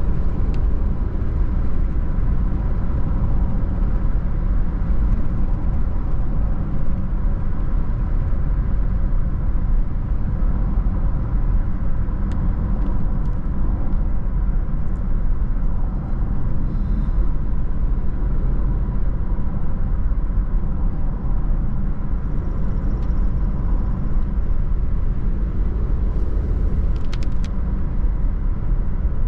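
A car driving along a road, with a steady low rumble of road and engine noise and a few faint clicks.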